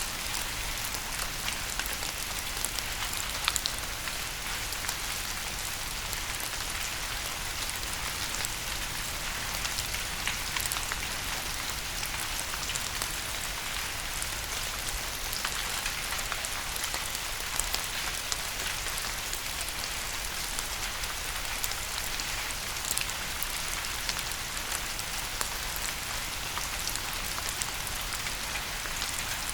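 Steady rain falling, an even hiss with many distinct drops pattering on a hard surface.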